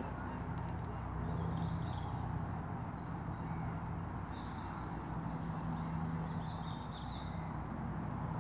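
Lakeside outdoor ambience: a few faint, short, high bird chirps over a steady low hum and soft background noise.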